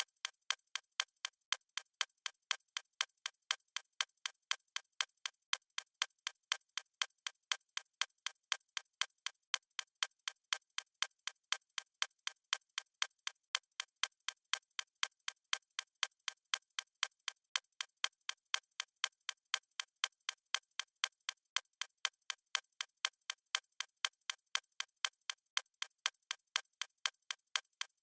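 Fast clock-style ticking sound effect of a stopwatch timer: crisp, even ticks at about three a second, keeping a steady pace.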